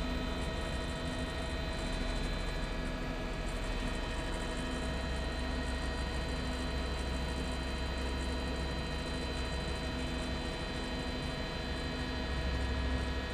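Steady drone of a news helicopter heard from inside the cabin: engine and rotor hum with a faint regular pulse.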